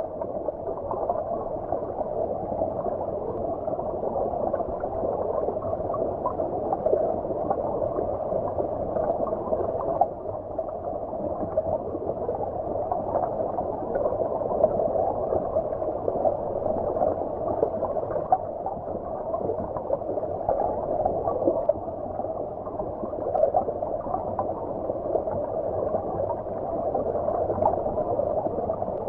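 Flowing stream water heard from underwater: a steady, muffled gurgling rush with no bright hiss on top.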